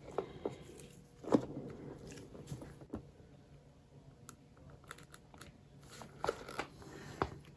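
Scattered light clicks and knocks with faint crinkling, the sharpest about a second in and a few more near the end.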